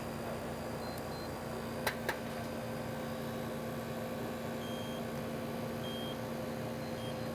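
Steady electrical hum of running air-conditioning and refrigeration lab equipment, with two short clicks about two seconds in and a few faint short high beeps.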